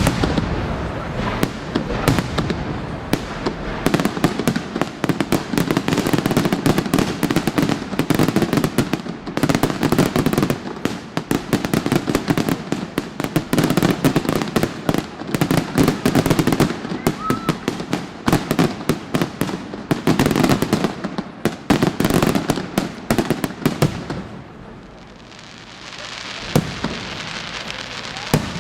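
Aerial fireworks show: a dense, rapid barrage of bangs and crackles that eases off about 24 seconds in, followed by a few single bangs and a rising crackling hiss near the end.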